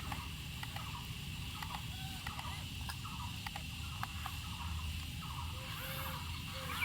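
Steady high insect drone, cricket-like, with short scattered chirps and clicks over a constant low rumble.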